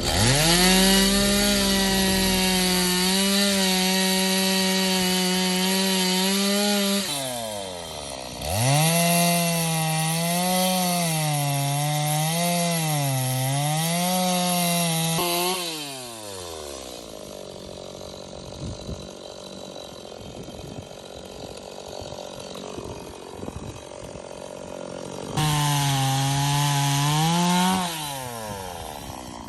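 Two-stroke chainsaw revved to full throttle and held there, then revved again with its pitch repeatedly sagging and recovering as it cuts into wood. It falls back to idle for several seconds, then makes one more short burst of throttle near the end.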